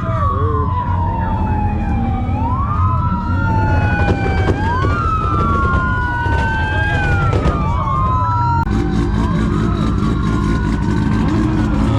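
Several police sirens wailing at once, each rising and falling slowly in pitch and overlapping the others, over a steady low rumble of engines. About nine seconds in the sound changes abruptly and the sirens become fainter.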